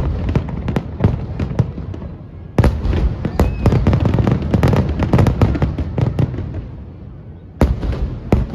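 Aerial fireworks shells bursting in rapid volleys: a dense run of bangs and crackles, a sudden fresh volley about two and a half seconds in that tails off, and another sharp bang near the end.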